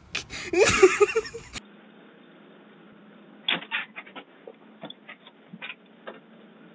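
Raccoon vocalizing: a loud, wavering cry about half a second in, then scattered short chirps and clicks.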